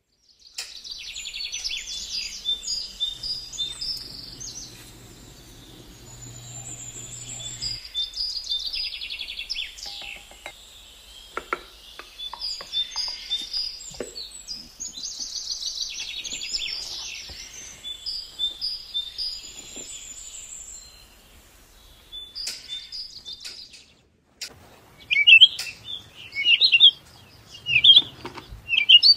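Small songbirds chirping in repeated quick trilled phrases, with shorter, louder chirps near the end.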